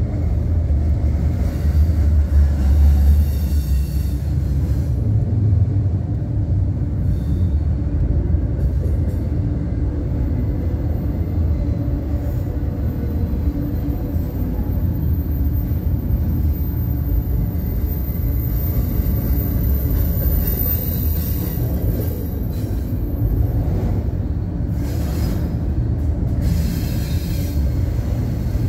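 Double-stack intermodal freight train's well cars rolling past: a steady low rumble of steel wheels on rail, with a thin high whine through the middle stretch.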